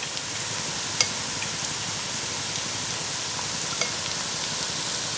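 Chopped onion and sweet pepper frying in oil in a pot: a steady sizzle, with a sharp click about a second in.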